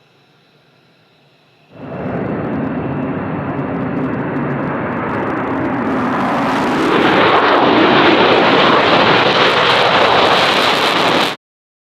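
F-35B Lightning II jet engine noise. After a faint hum, loud jet noise starts suddenly about two seconds in, grows louder and brighter about seven seconds in, and cuts off abruptly near the end.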